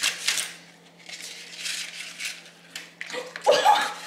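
Paper cupcake liners rustling and crinkling in several short bursts as they are separated and pressed into a silicone muffin mold. A short burst of voice comes near the end.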